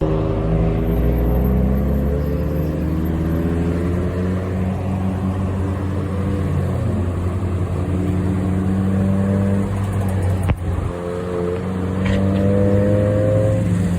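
Truck engine running steadily while driving, its drone shifting slowly in pitch, with a sharp knock about ten and a half seconds in.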